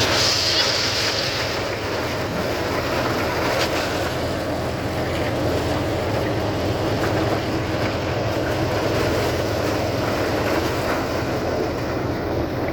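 Tractor engine running steadily, driving an attached maize machine, with a dense mechanical clatter and hum, and a brief hiss about half a second in.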